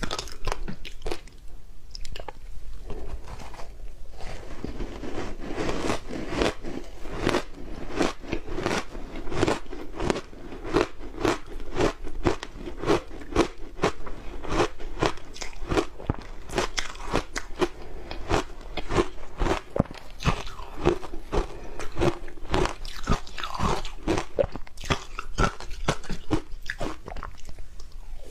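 Ice with matcha being bitten and chewed close to the microphone: a steady stream of sharp, rapid crunches, a few every second, growing fuller from about four seconds in.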